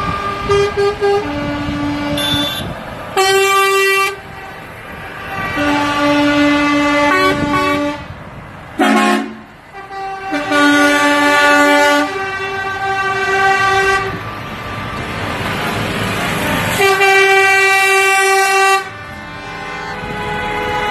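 Truck air horns honking in a convoy: long blasts of one to two seconds, several horns of different pitch sounding together, over the constant noise of passing trucks.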